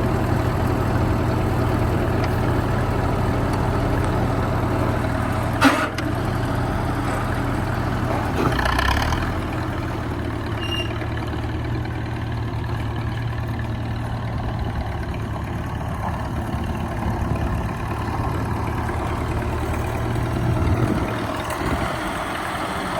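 Ford 8N tractor's four-cylinder flathead engine idling steadily. A sharp click about six seconds in, then the engine note shifts briefly around nine seconds and settles slightly quieter.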